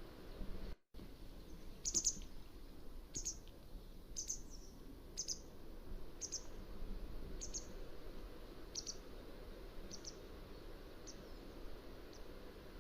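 Mountain wagtail giving a series of short, high calls, about one a second, growing fainter toward the end, over a steady background hiss. Just under a second in, the sound cuts out briefly.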